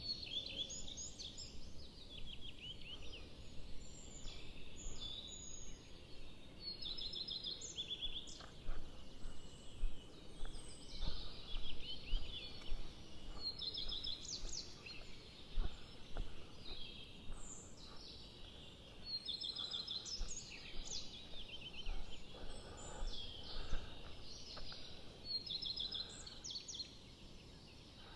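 Several songbirds singing and calling: short chirping trills repeated and overlapping throughout, over a faint low rumble.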